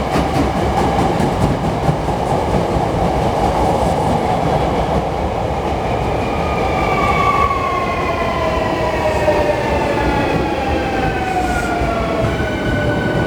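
Hankyu electric train running on the rails with a steady wheel rumble. From about halfway in, the traction motor whine falls steadily in pitch as the train slows down.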